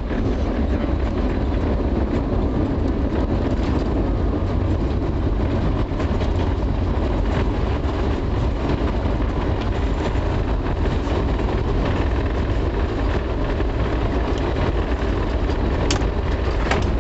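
Steady low rumble inside an airliner cabin as the aircraft rolls along the ground after touchdown: jet engines and the wheels on the pavement. A single sharp click comes near the end.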